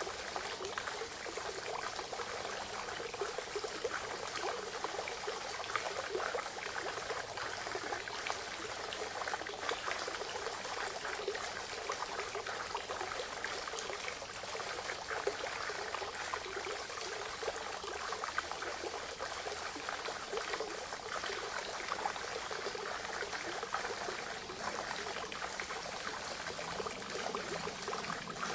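Forest spring water trickling and splashing steadily into a pond, a constant bubbling patter.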